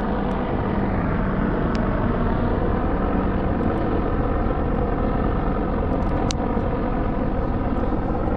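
Steady rush of river water running close by, even and unbroken, with a couple of faint clicks.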